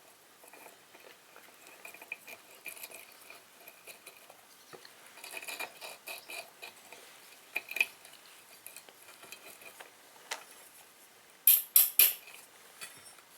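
Small metal parts of a hydraulic bottle jack clinking and tapping against each other and tools as it is reassembled after new rubber seals, with three sharp, loud clinks in quick succession near the end.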